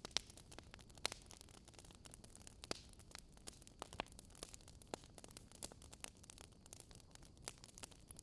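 Wood fire crackling: irregular sharp pops and snaps over a soft, steady hiss, the loudest pop coming just after the start.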